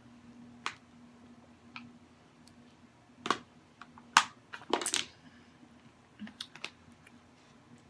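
Scattered sharp clicks and crackles from eating fried chicken and shrimp close to the microphone, a cluster of them about five seconds in, over a faint steady hum.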